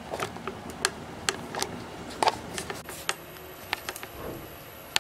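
Irregular light clicks and taps, about ten over a few seconds, spaced unevenly.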